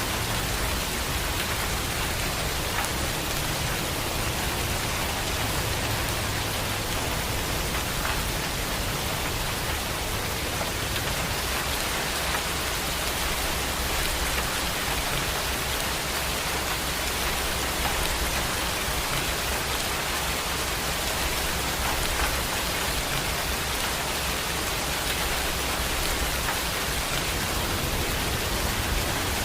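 Heavy rain falling steadily, an even hiss of downpour, with a low rumble underneath that comes and goes.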